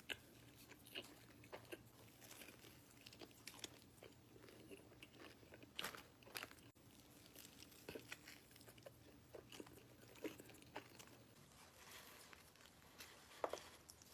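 Near silence with faint, scattered crunches and mouth clicks of someone chewing food, a few soft ticks spread unevenly across the stretch.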